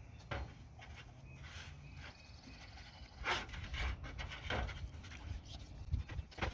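A few sharp clicks and knocks over a low steady rumble.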